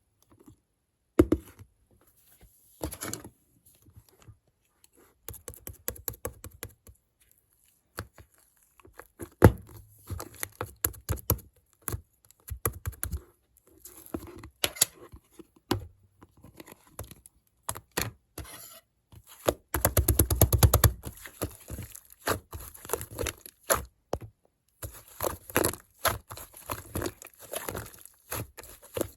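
Slime being squeezed and stretched by hand, giving irregular clusters of sharp clicks and crackling pops with short pauses between them. A dense run of crackles comes about twenty seconds in.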